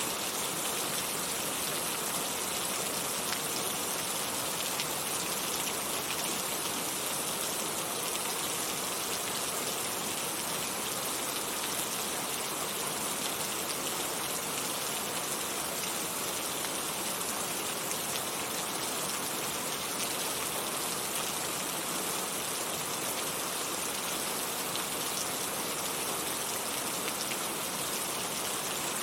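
Heavy rain falling steadily, a dense, even hiss of many drops with faint individual drop ticks, no change in intensity.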